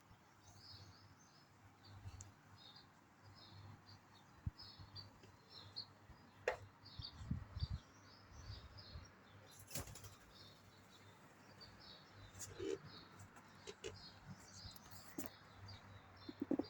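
Small birds chirping, short high chirps repeating over and over, with a few sharp clicks or knocks in between.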